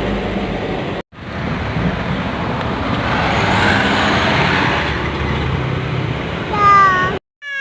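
Road traffic noise: motor vehicle engines and tyres rumbling steadily, cut off briefly about a second in. Near the end comes a short pitched sound that falls in pitch, and then the sound cuts out.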